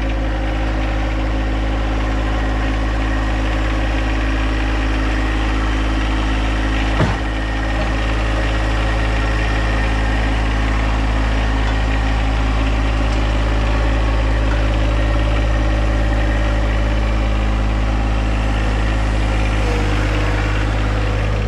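John Deere tractor's diesel engine running steadily at a constant speed, with a single clunk about seven seconds in.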